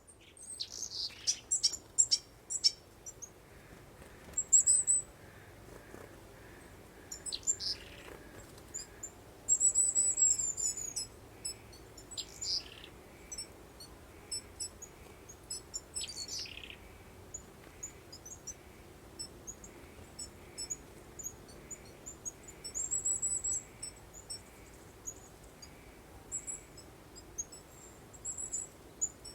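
Wild birds chirping and singing: scattered short high chirps, two rapid trilling passages, and several downward-sliding whistled notes, over a soft steady breeze.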